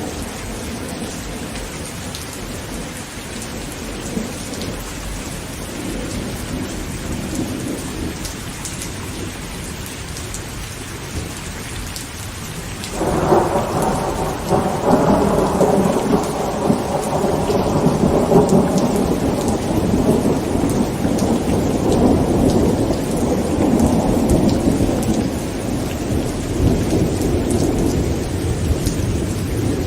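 Heavy rain beating steadily on a tent. Roughly halfway through, a long roll of thunder breaks in suddenly and rumbles on, swelling and easing.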